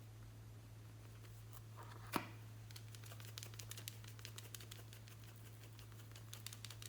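Glossy slime being handled and mixed: a single tap about two seconds in, then a run of small crackling pops as it is worked.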